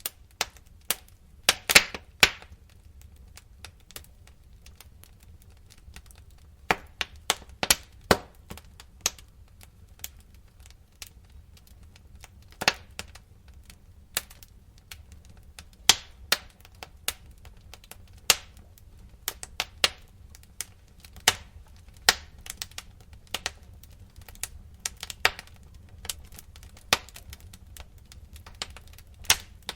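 Wood fire crackling in a fireplace: irregular snaps and pops, a quick run of louder pops about two seconds in, over a steady low rumble.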